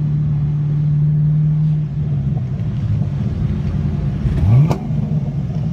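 LS1 V8 in a BMW 318ti running on track: a steady engine note that breaks off about two seconds in, then a quick rising rev about four and a half seconds in.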